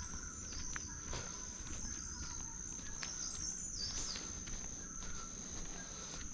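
Steady high-pitched drone of insects, with a few short bird calls about halfway through and scattered soft clicks of footsteps.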